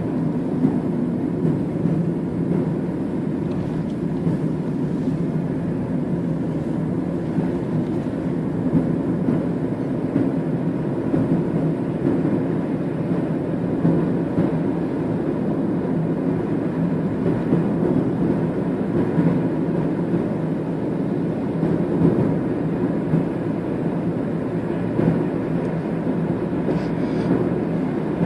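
Steady engine and road drone heard inside a moving bus, with small bumps in the rumble.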